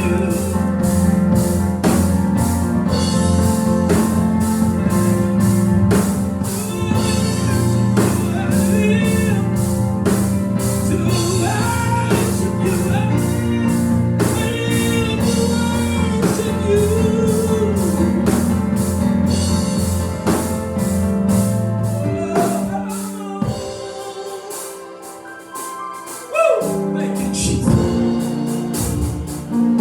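Live gospel music in church: voices singing over a band with a steady drum beat, with a short break in the bass and drums a little before the end.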